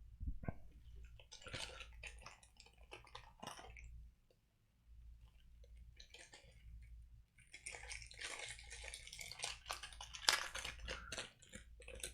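A pineapple hard candy being unwrapped and eaten: irregular crinkling and clicking with chewing sounds, densest from about eight to eleven seconds in.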